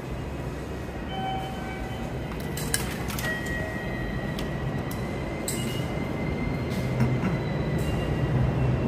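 Railway station ambience: the steady hum of an electric train standing at the platform, a thin high steady tone that sets in about three seconds in, and a few sharp clinks.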